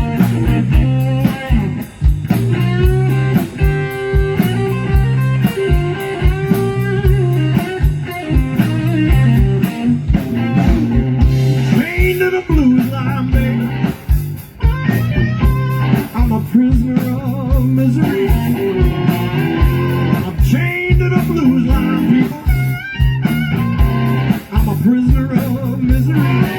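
Live blues band playing an instrumental passage: a guitar lead over bass and a steady drum beat.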